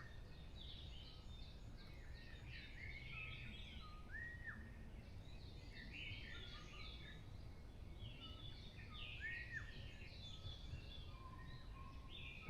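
Faint songbirds singing in a forest: many overlapping chirps, and among them a repeated call of a short low note followed by a higher arched whistle, about every four to five seconds.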